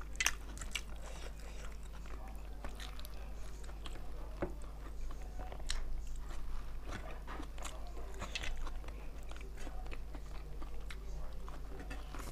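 Close-miked chewing and biting of spicy chicken, with many short wet mouth clicks scattered throughout over a low steady hum.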